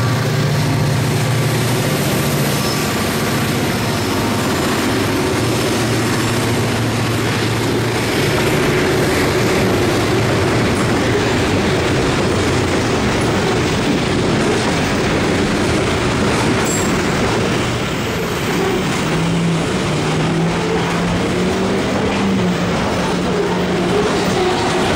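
Maryland Midland freight train running by: EMD diesel locomotives droning, with freight cars rumbling on the rails.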